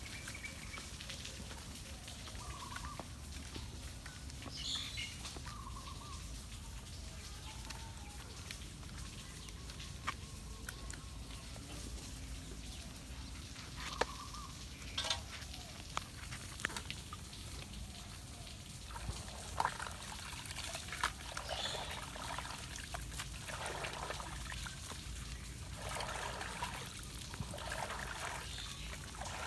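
Floodwater gurgling and trickling through a clogged culvert as debris is cleared, with scattered sharp knocks and a run of splashy bursts near the end.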